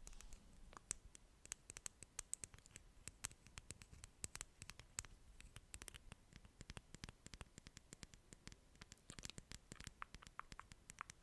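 Close-miked ASMR trigger sounds: a quiet, irregular run of sharp little clicks and crackles, several a second.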